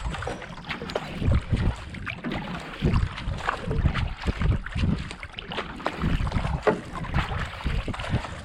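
Kayak paddle strokes: blades dipping and pulling through canal water in a steady pacing rhythm of about 70-80 strokes a minute, with wind buffeting the microphone.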